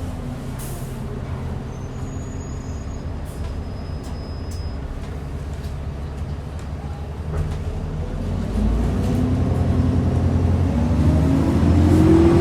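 Alexander Dennis Enviro400 double-decker bus heard from inside: the engine runs steadily at low revs, then gets louder about eight seconds in and rises in pitch toward the end as the bus accelerates.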